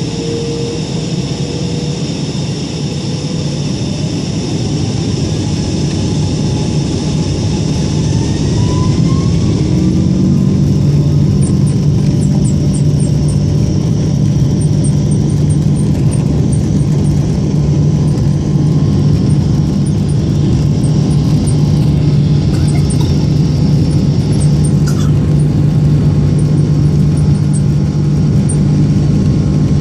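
Boeing 777 jet engines spooling up to takeoff thrust: a whine climbs in pitch over the first ten seconds or so as the sound grows louder. It then settles into a steady, loud, deep drone.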